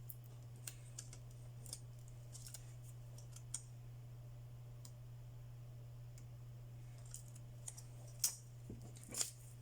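Scattered light clicks and taps from handling small phone parts and tools, with two louder knocks near the end, over a steady low hum.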